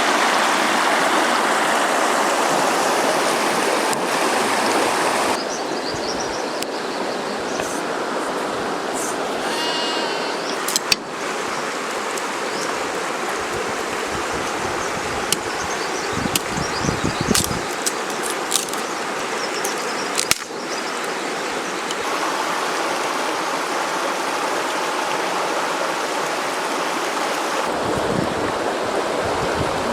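River water rushing steadily, with a few short clicks and brief high chirps around the middle. The level changes abruptly a few times.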